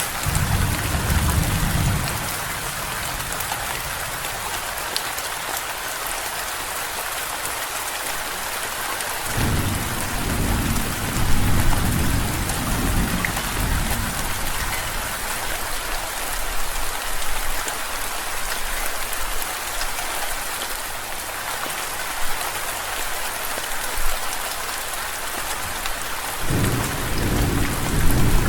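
Steady rain falling with rolls of thunder: a low rumble fading out in the first two seconds, another starting about nine seconds in and lasting several seconds, and a third beginning near the end.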